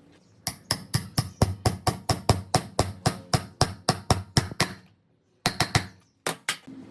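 Rapid hammer blows, about four or five a second for some four seconds, then after a break two more short runs of three and two blows.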